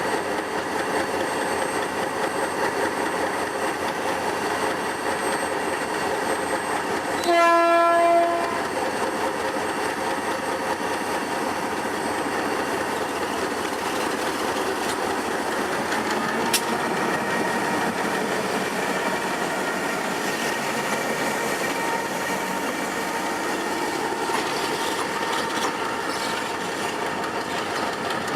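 G22 diesel-electric locomotive running steadily while shunting, with one horn blast lasting about a second some seven seconds in. A single sharp click comes about sixteen seconds in.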